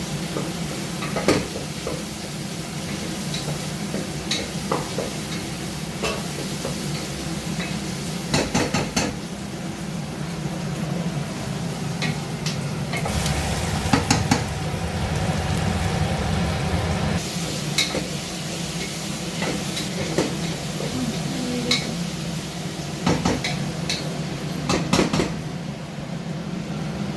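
Chicken frying in a pan, with a steady sizzle. A metal spoon stirs it, scraping and clicking against the pan at irregular moments.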